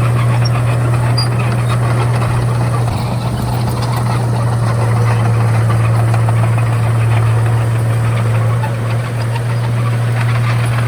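Komatsu D31A bulldozer's diesel engine running steadily with a strong low drone.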